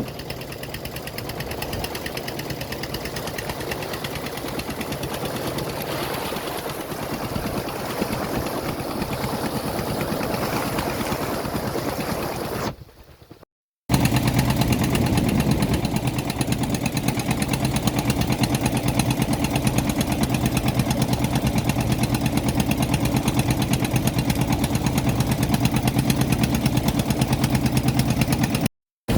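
A small engine running steadily with a fast even pulse. It breaks off about 13 s in, then comes back louder and deeper and runs on.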